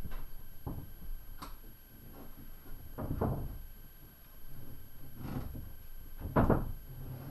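Plywood sheets being moved and stood up against a wall: a series of wooden knocks, thuds and scrapes, the loudest about six and a half seconds in.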